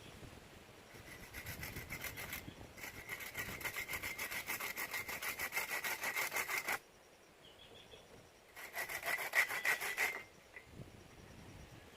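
Hand saw cutting through wood with fast back-and-forth strokes, in three bouts: a short one, a longer run of about four seconds, then another short one after a pause of about two seconds.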